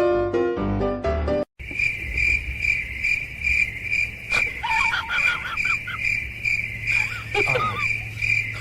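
A short piano music phrase that cuts off about a second and a half in, followed by steady chirping like crickets, a high note pulsing about three times a second. Short warbling calls sound over the chirping twice, around the middle and near the end.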